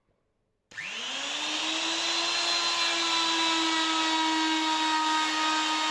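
Electric wood router switched on about a second in, its motor spinning up with a quickly rising whine and then running steadily at full speed. The 6mm bit held in the 1/4 inch collet with a copper shim spins smoothly, with no slipping.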